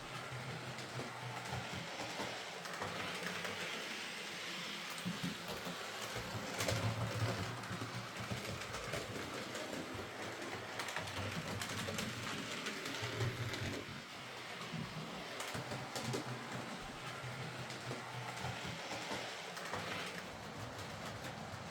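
Hornby Britannia Class OO gauge model steam locomotive running along the track: a steady motor and gear hum with light clicking from the wheels on the rails.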